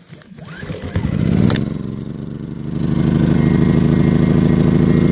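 Generac iQ2000 inverter generator's engine being started: it catches about a second in, surges briefly, dips, then rises into steady running at speed.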